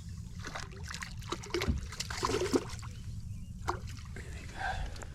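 Splashing water and a run of knocks and clatter in a small fishing boat as a leerfish is brought aboard, over a steady low rumble.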